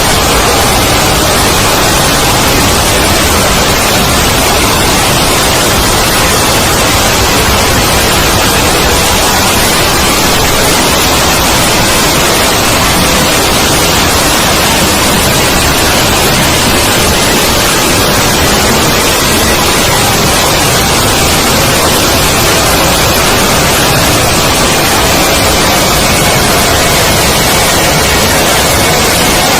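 Loud, steady static hiss spread evenly across all pitches, with a few faint steady tones buried beneath it.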